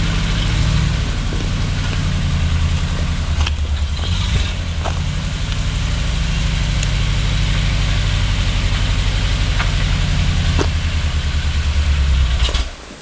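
An engine idling steadily with a low, pulsing note, then stopping abruptly near the end. A few faint clicks sound over it.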